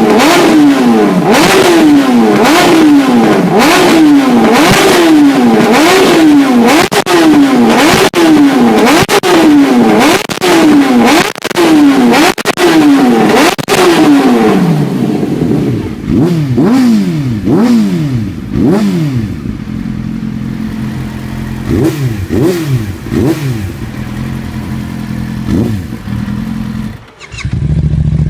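Motorcycle engine with a loud aftermarket exhaust, revved in quick blips about once a second, each rising sharply and falling back. It then settles to an idle with occasional smaller blips, and near the end there is an abrupt cut to another bike idling steadily.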